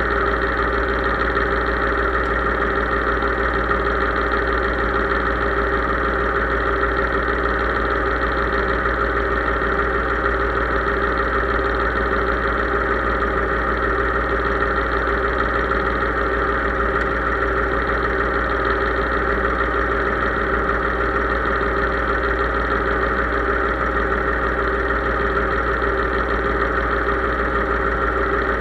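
Case IH 3220 tractor's diesel engine running at a steady speed, an even, unchanging drone.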